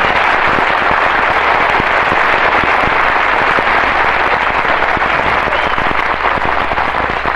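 Studio audience applauding at the end of a song, a dense patter of many hands clapping that eases slightly near the end.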